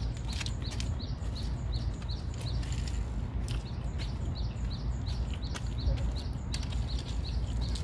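A small bird chirping over and over, short high notes a few times a second, over a low steady rumble.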